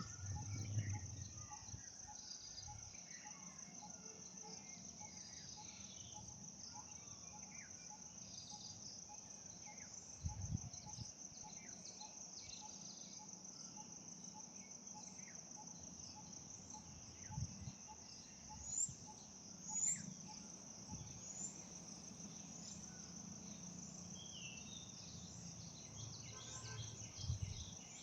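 Steady high-pitched insect trilling, typical of crickets, with a few faint, short high bird chirps and occasional low thumps.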